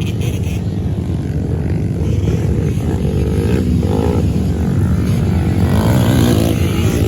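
Small 110cc youth ATV engines running on a motocross track as the quads race, a continuous mixed engine buzz that swells slightly louder toward the end.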